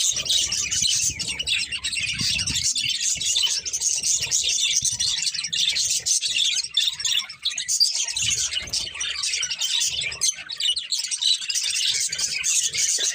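Budgerigars chirping and warbling in a dense, unbroken chatter of quick high chirps.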